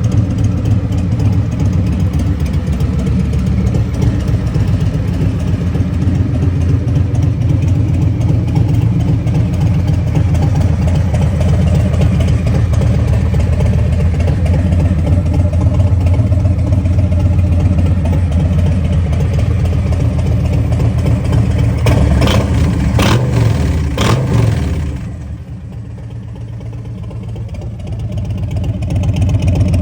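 Motorcycle engine idling through a loud exhaust with a steady low pulse. About three quarters of the way in come three sharp cracks a second apart, then the sound drops off for a few seconds and swells back up near the end.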